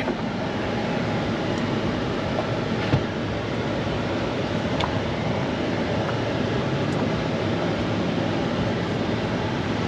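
Steady running noise of a truck towing a caravan, with a few faint knocks and rattles, the clearest about three and five seconds in.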